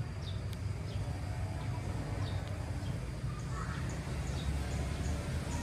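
Small birds chirping, short high notes repeating several times a second, over a steady low background rumble.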